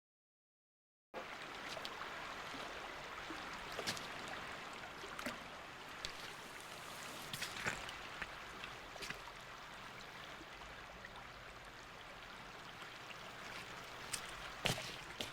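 Faint trickling-water ambience with scattered sharp ticks, starting about a second in after a moment of silence.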